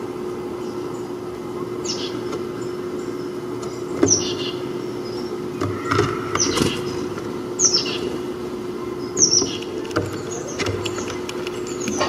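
Small songbird calling: a series of short, high chirps, each falling in pitch, every second or two, over a steady low hum.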